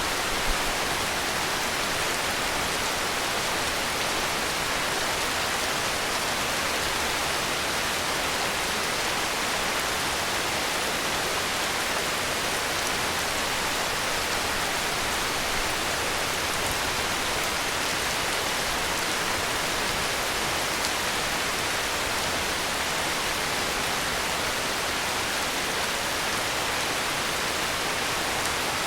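Heavy rain falling in a steady, even hiss that does not rise or fall.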